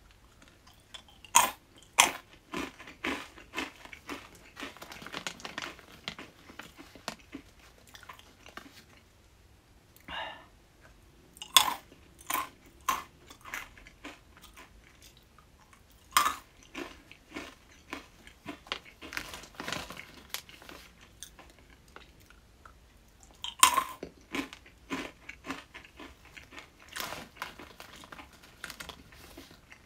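Crunchy coated bean snacks (Denroku mame) being bitten and chewed close to the microphone, in several bouts: each opens with a loud crack as a bean breaks, followed by a run of smaller crunches.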